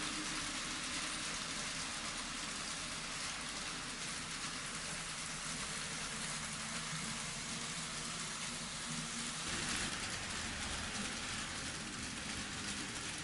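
N scale model trains running on the layout track: a steady hiss and fine clatter of small wheels on the rails with a low motor hum. It grows louder for a moment about ten seconds in.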